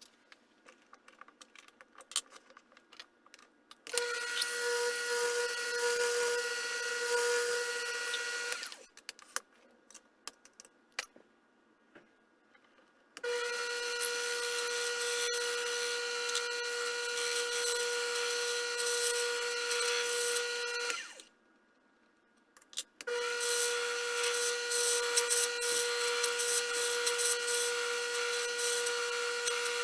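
A small machine tool's motor runs in three stretches, a steady whine over a hiss of metal cutting, each starting and stopping sharply. Light clicks of handling fill the gaps between runs.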